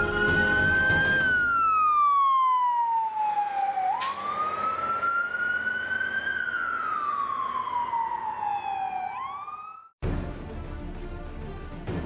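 Emergency vehicle siren wailing: it twice climbs slowly to a high pitch and slides back down, then gives a few quick short upward whoops before cutting off suddenly about ten seconds in. Music plays under the start and takes over after the cut.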